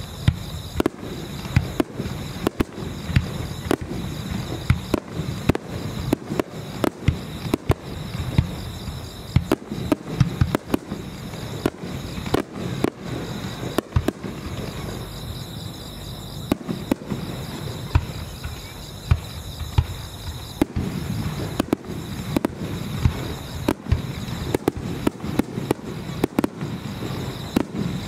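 A star mine fireworks barrage: aerial shells launching and bursting in quick succession, several sharp bangs a second at irregular spacing, one running into the next with no break.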